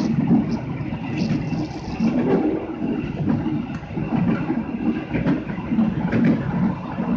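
Passenger train coach running along the track, heard from the rear of the last car: a continuous rumble of wheels on rails that swells and fades, with a few sharp clicks.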